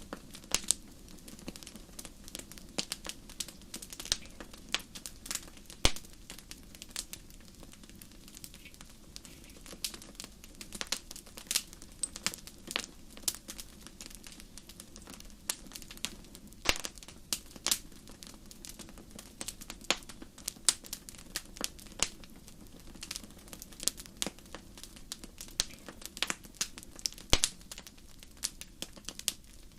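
Fire in a fireplace crackling, with many irregular sharp pops and snaps over a low, steady rumble of flame.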